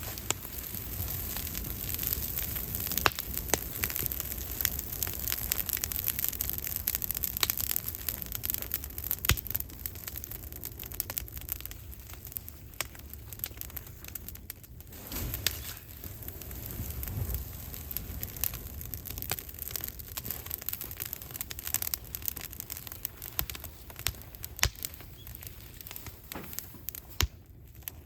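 Scrap wood burning in an incinerator, crackling with frequent, irregular sharp pops over a steady hiss.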